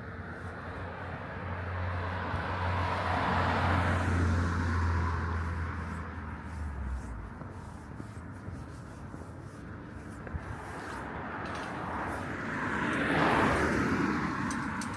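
Two vehicles passing by, each swelling and then fading: the first about four seconds in with a low engine hum under it, the second near the end.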